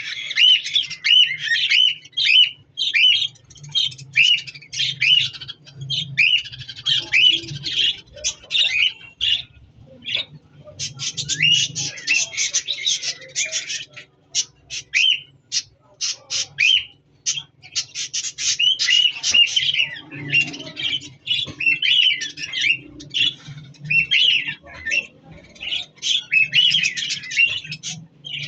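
A flock of budgerigars chattering and squawking: a dense run of short, rapid chirps with brief lulls about ten and fourteen seconds in, over a faint low hum.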